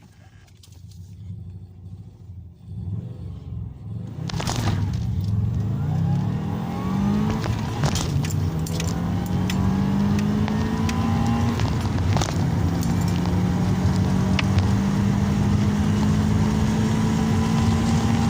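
Subaru Legacy twin turbo's 2.0-litre flat-four accelerating hard through the gears: the engine note climbs in pitch, drops back with a short click at each gear change about four, eight and twelve seconds in, then climbs again. It starts quiet and grows steadily louder.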